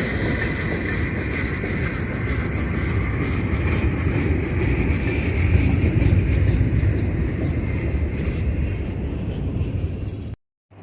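Freight train rolling past: a steady low rumble of cars on the rails with a faint high whine over it, cutting off suddenly near the end.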